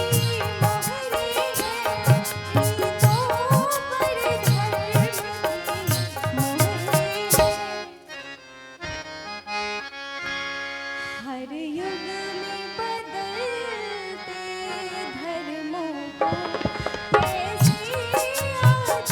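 Harmonium, tabla and dholak playing a Hindi film song with a woman singing. The tabla and dholak stop about eight seconds in, leaving the harmonium's held chords under the voice, and come back in near the end.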